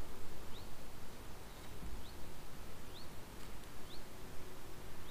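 A bird repeating short rising chirps, roughly one a second, over a low rumble.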